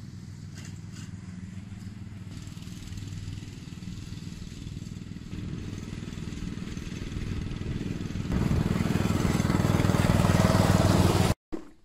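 A small engine running steadily at low throttle, opened up louder about eight seconds in, then cut off abruptly near the end.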